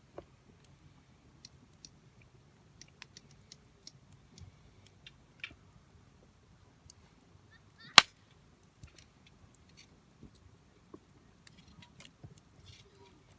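Wood fire crackling: scattered small pops and snaps, with one loud sharp crack about eight seconds in.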